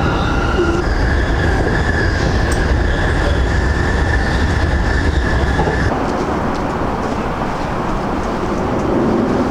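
Passenger train running along the rails: a steady low rumble with a high, steady whine that steps up in pitch about a second in and fades out around six seconds.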